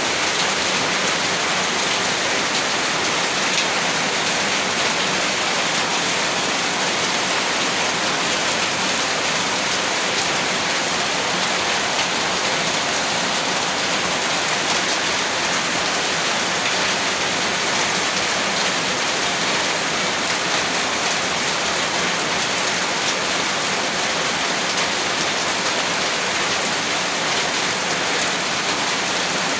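Heavy rain falling and pattering on surfaces, a dense, steady hiss that does not let up.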